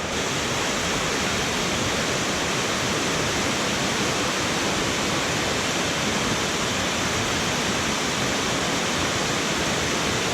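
Waterfall cascading down rock: a loud, steady rush of water.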